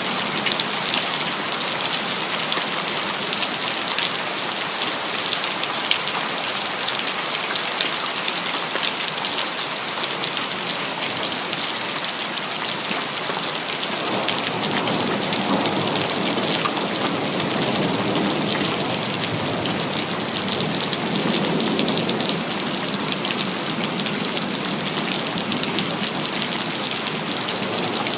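Steady rain falling, with many close drops ticking on hard surfaces. About halfway through, a low rumble of distant thunder swells up and fades out again over several seconds.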